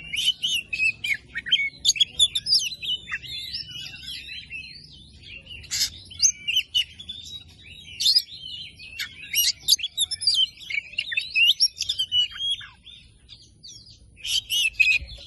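Oriental magpie-robin (kacer) singing a loud, fast song of varied whistles, trills and sharp chirps. The song comes in long runs with two short breaks, one about four seconds in and one near the end.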